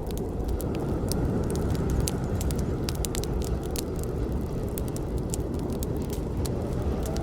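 Campfire burning: a steady low rush of flames with many sharp crackles and pops of burning wood.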